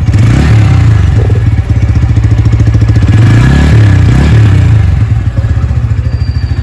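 Bajaj Pulsar P150's single-cylinder engine, heard at its underbelly exhaust, idling with a steady beat and revved up and back down a couple of times. It settles back to idle near the end.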